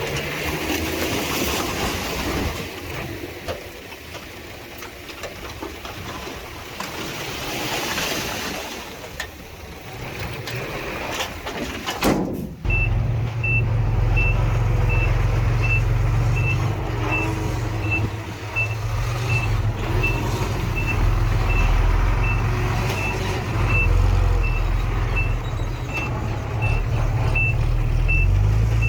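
Heavy diesel earthmoving machinery running. About twelve seconds in, the sound changes abruptly to a deep, steady diesel engine rumble under a reversing alarm beeping steadily about twice a second, the sign of a machine backing up.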